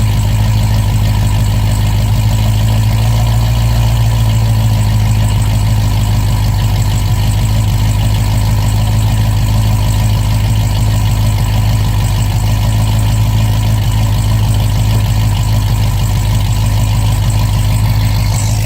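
Supercharged 6.2-litre LSA V8 of a 2011 Cadillac CTS-V wagon, fitted with an aftermarket cam, long-tube headers and an X-pipe into the stock mufflers, idling steadily after a cold start.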